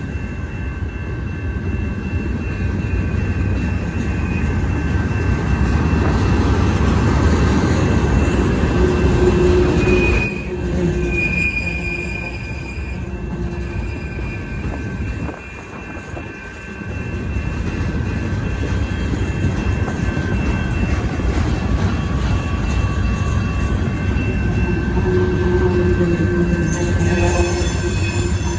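Freight cars of a Union Pacific train rolling past, with a steady low rumble of wheels on rail and high-pitched wheel squeal that comes and goes. The rumble briefly drops about halfway through, then builds again.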